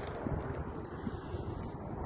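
Wind blowing across the microphone, an uneven low rushing noise.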